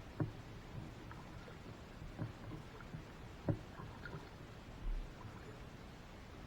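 Small boat on a river being handled or paddled: a few sharp knocks over a faint steady background, the loudest about three and a half seconds in, and a dull low thump near five seconds.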